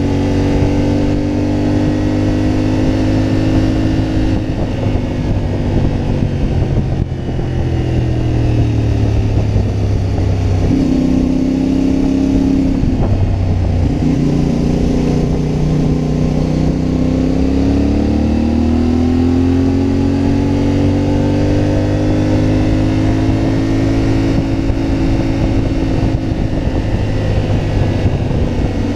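CFMoto 450MT motorcycle's parallel-twin engine running under way. Its note falls about a third of the way in, shifts in steps, then climbs again past the middle as the rider rolls off and gets back on the throttle.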